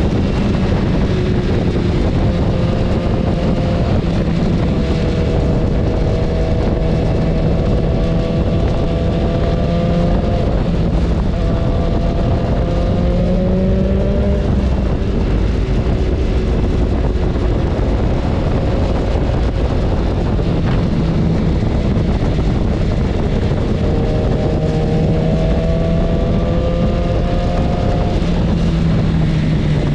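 BMW S1000RR's inline-four engine heard from on the bike while riding. Its note climbs slowly for several seconds and drops back a few times, under a heavy rush of wind noise on the microphone.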